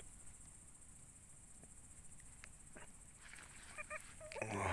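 Quiet wood campfire with a few faint crackles; near the end a man hiccups, with a short pitched voiced sound.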